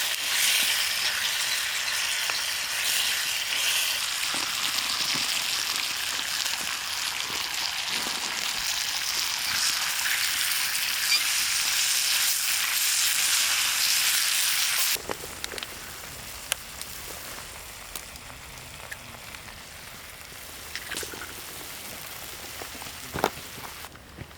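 Food sizzling as it fries in a hot pan, a steady loud hiss for about fifteen seconds. It then cuts off suddenly to a quieter background with a few light clicks and knocks.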